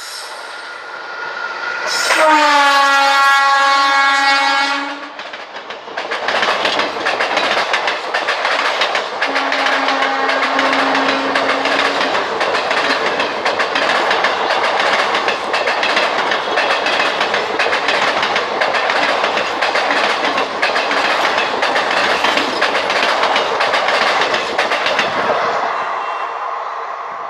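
An Indian Railways locomotive horn sounds for about three seconds, then a train passes close by with a dense, continuous clatter of wheels over the rails for about twenty seconds. A short, low steady tone comes about ten seconds in, and the clatter fades near the end.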